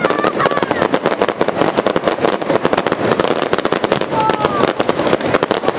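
Aerial fireworks crackling and popping in a dense, unbroken stream, many sharp cracks a second, as the shells burst close overhead.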